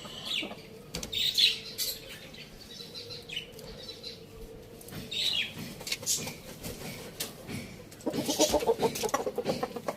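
Farmyard chickens: scattered short, high, falling chirps and clicks, then a loud, rapid pulsing burst about eight seconds in.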